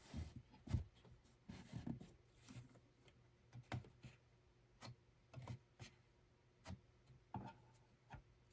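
Faint, irregular clicks and light knocks, roughly one or two a second, from small things being handled.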